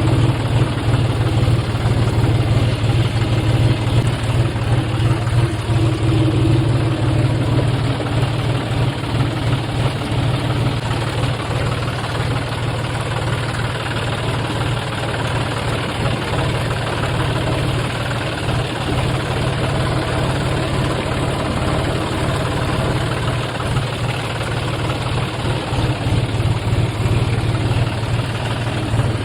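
A John Deere tractor's diesel engine running steadily, a low, even drone with no change in speed.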